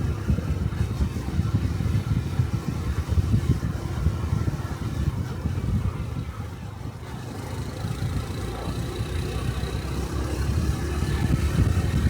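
Small single-cylinder Honda Cub 125 cc motorcycle engine and exhaust running under way. The engine eases off about halfway through, then picks up again with a slightly rising pitch near the end.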